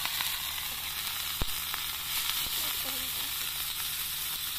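Red ants frying with sliced onion and dried red chilli in hot oil in a steel kadhai: a steady sizzle, with one sharp click about a second and a half in.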